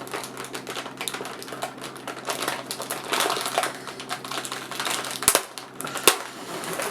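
Plastic cookie package being handled and opened, a dense run of crinkling and crackling with two sharper snaps near the end.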